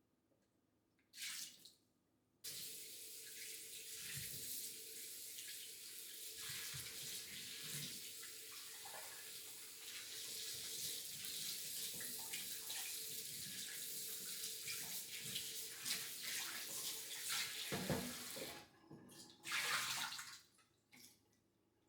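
Water running from a kitchen tap into a sink for about sixteen seconds, then cut off, followed by a brief second run of water.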